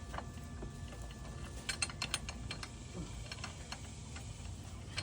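Scattered sharp metallic clicks and clinks of hand tools and hardware being worked, with a quick run of clicks about two seconds in, over a steady low hum.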